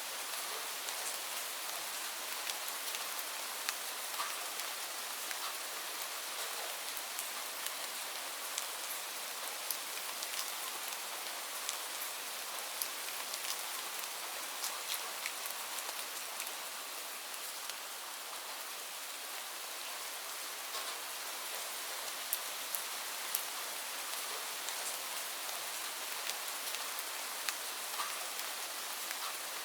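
Steady rainfall: a continuous high hiss of rain with many individual drops ticking sharply on a hard surface.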